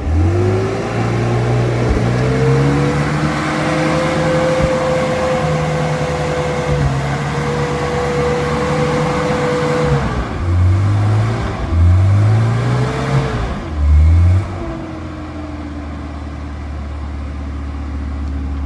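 Daihatsu Rocky's 2.0-litre petrol engine driving through mud. It revs up and holds high revs, then gives a run of short revs and drops back between about ten and fourteen seconds in, and settles to a steadier, lower run near the end.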